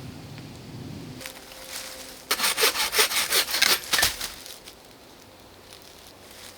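Hand saw cutting through a wooden branch: about two seconds of quick, even back-and-forth strokes starting about two seconds in, then it stops.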